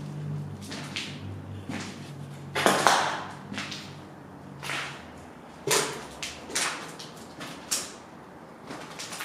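Footsteps crunching and scuffing unevenly over debris, the loudest crunch about three seconds in, over a low hum that stops about halfway through.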